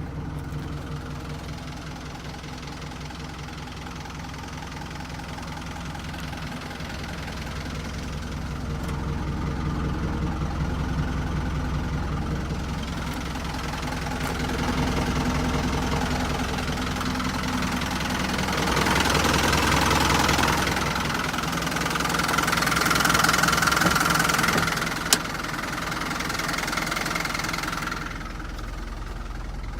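Hino Dutro truck's engine running, first at a steady, knocking idle, then growing louder and fuller through the middle and later part before easing off near the end. A single sharp click comes about 25 seconds in.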